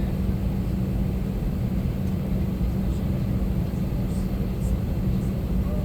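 Steady low rumble and hum of an Airbus A321 airliner cabin before departure, heard from inside the cabin.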